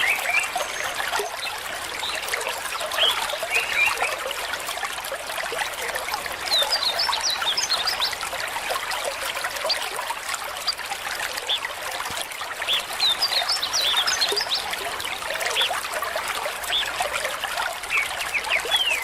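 Shallow stream trickling and babbling, a steady rush of water with many small gurgles. Twice, clusters of short high chirps stand out over the water.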